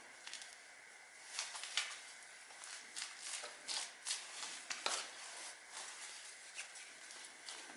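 Irregular small clicks, taps and scrapes of hand tools and parts being handled during engine work, over a faint steady high hum.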